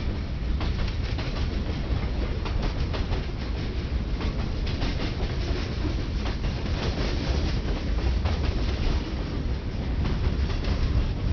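Freight cars of a long mixed train (boxcars, tank cars, gondolas) rolling past on the adjacent track: a steady rumble with a rapid run of wheel clicks over the rail joints.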